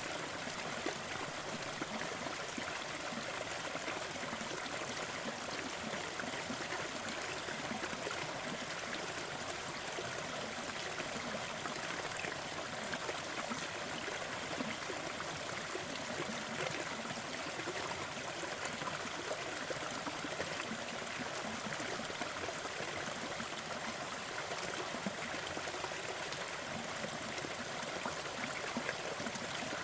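Waterfall: water falling and splashing in a steady, unbroken hiss, bright rather than deep, with no rumble underneath.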